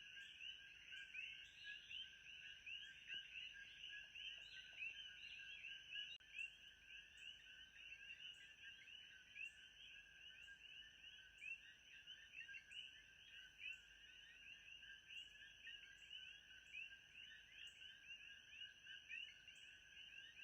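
Faint, steady night chorus of many small creatures, with dense overlapping chirping calls.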